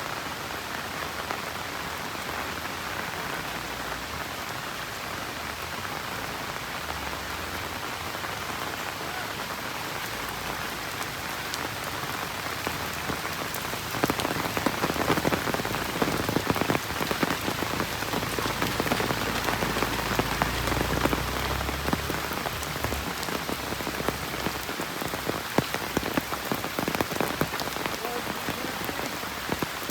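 Steady rain falling, with a constant hiss of drops. About halfway through it grows louder, with many sharper, closer drop impacts.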